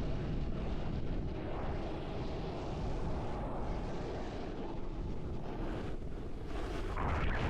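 Wind rushing over the camera microphone as a snowboarder rides downhill, with a louder rush of noise near the end.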